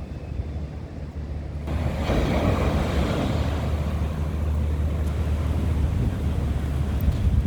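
Sea waves breaking and washing up a beach, swelling louder about two seconds in as a wave surges in. Wind rumbles on the microphone throughout.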